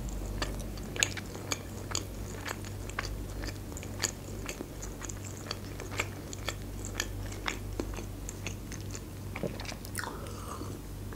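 Close-up mouth sounds of chewing a soft tortilla wrap: wet clicks and smacks, several a second, over a faint steady low hum. Near the end comes a gulp of juice from a glass.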